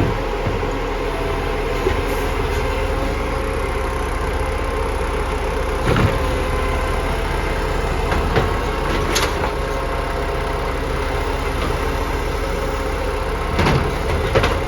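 Garbage truck engine running steadily, with a few short knocks and clanks over it.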